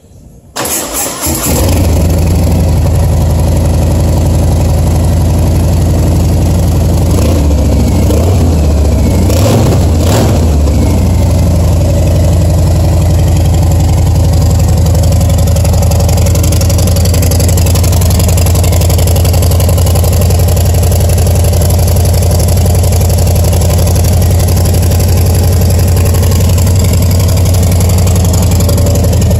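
A 2019 Harley-Davidson Fat Bob's Milwaukee-Eight 114 V-twin cold-started. The starter cranks for about a second, then the engine catches and settles into a loud, steady idle.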